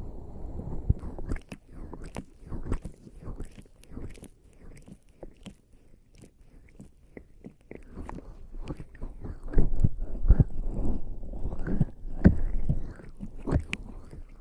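Wet, sticky squelching of lubricant-jelly-covered skin rubbing against a binaural microphone's ears, with many small clicks over a low rubbing sound. It grows louder about two-thirds of the way through.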